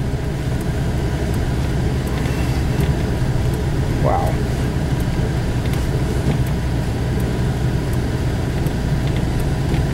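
Steady low engine and road drone heard from inside a moving vehicle's cabin.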